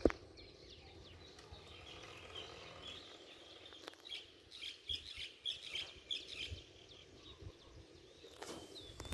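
Faint bird chirping: a run of short, high chirps about four seconds in, over quiet open-air ambience. A single sharp click right at the start.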